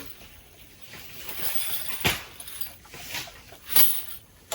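Two sharp knocks about a second and a half apart, as of a hammer driving a nail into the wooden frame of a plastic shelter, with light rustling between them.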